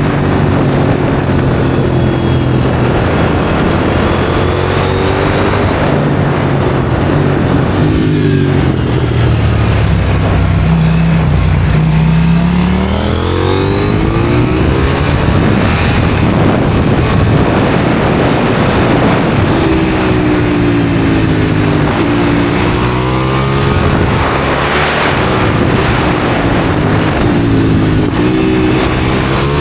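KTM 790 Duke's parallel-twin engine through an IXRACE aftermarket exhaust, under way with its note climbing and falling several times as it accelerates and backs off through the gears. A steady rush of wind runs underneath.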